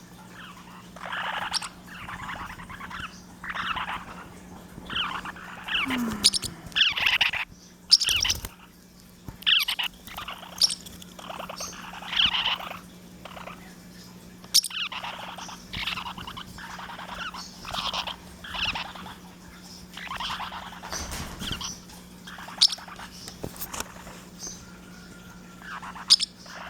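Small pet parrots, lineolated parakeets and parrotlets, chirping in many short repeated calls.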